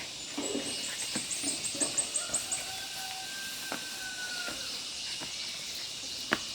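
A small bird gives a quick run of about ten thin, very high notes in the first couple of seconds, then a long, faint, steady whistled note. Scattered clicks and light knocks of movement sound underneath.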